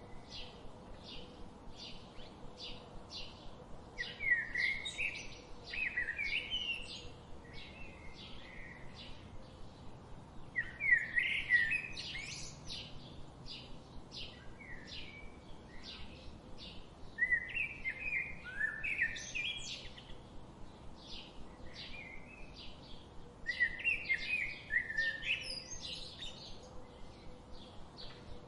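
Birds chirping: a steady run of short high chips, two or three a second, with louder warbling song phrases breaking in four times.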